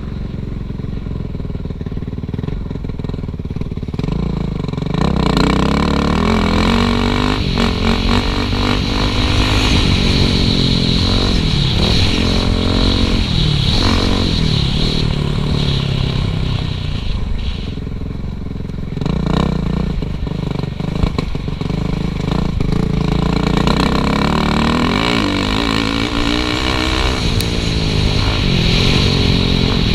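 Suzuki RM-Z450 four-stroke single-cylinder dirt bike engine being ridden, its pitch rising and falling as the throttle opens and closes every second or two. It is quieter for the first few seconds, then louder.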